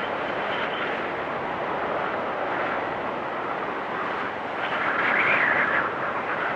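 Storm wind blowing hard and steadily with a whistling edge, swelling into a louder, higher gust about five seconds in.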